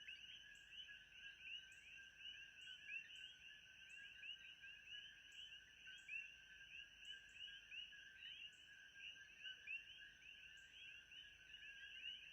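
Faint, steady chorus of many small animal calls, dense short chirps overlapping continuously over a thin, steady high tone, like a night-time frog chorus.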